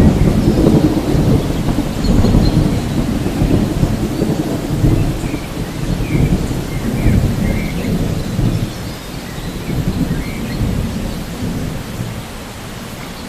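Steady rain with a long roll of thunder, the rumble easing off over the last few seconds.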